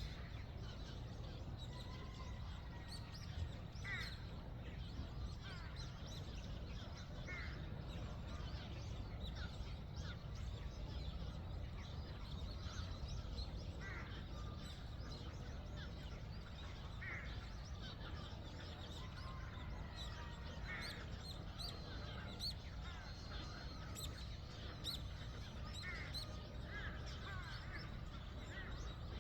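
Outdoor bird calls: short chirps and call notes scattered irregularly, some sweeping down in pitch, over a steady low background rumble.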